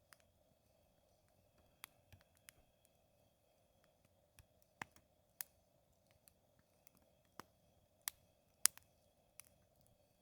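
Wood fire crackling: sporadic sharp pops from burning wood, about eight clear ones at uneven intervals, the loudest near the end.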